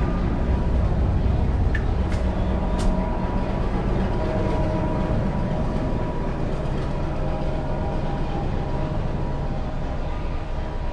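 Train at the station: a steady low rumble with a constant hum, and two short sharp metallic clicks about two and three seconds in.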